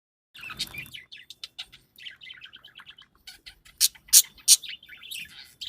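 Parrots chirping and chattering in quick, overlapping high notes, with three loud shrill calls in close succession a little past halfway.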